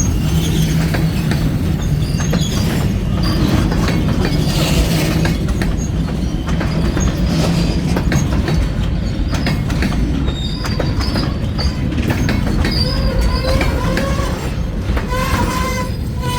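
Freight train rolling past at close range: a steady rumble of wheels on the rails, with repeated clicks and short high-pitched wheel squeals.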